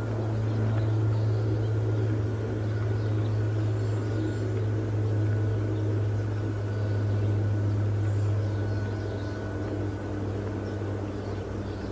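A steady low engine-like hum that holds without a break, with a faint steady higher tone above it.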